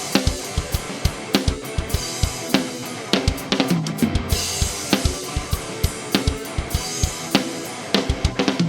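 Drum kit played in a steady rock beat, with kick drum, snare and cymbal crashes, over the song's band backing of guitar and bass in the instrumental intro.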